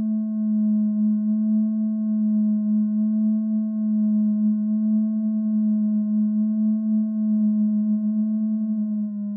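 A steady electronic tone, one low held note with faint higher overtones, unbroken and unchanging, that dips slightly in pitch near the end.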